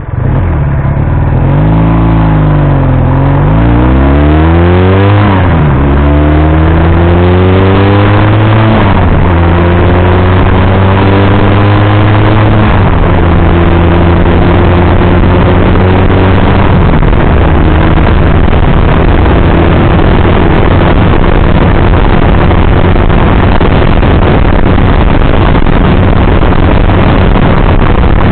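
Motorcycle engine pulling away and accelerating, its pitch climbing and dropping suddenly at each gear change, three or four times, then holding a steady pitch at cruising speed under a constant rush of noise.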